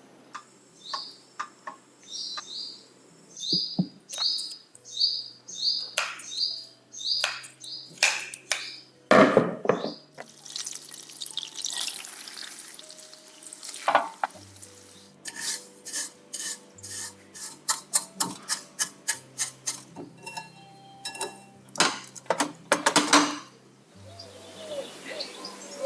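Kitchen utensils clinking, tapping and scraping against bowls and dishes during baking prep: a long series of sharp taps and clicks, with a stretch of rustling scraping partway through.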